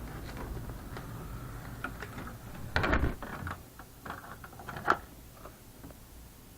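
Steady low mechanical hum from the supermarket's equipment carrying across the property, broken by a few knocks and rustles, loudest about three seconds in and again near five seconds. After that the hum drops away.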